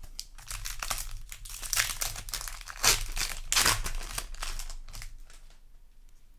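Foil wrapper of a Magic: The Gathering play booster pack crinkling and tearing as it is opened: a run of crackles, loudest about three seconds in, dying away after about five seconds.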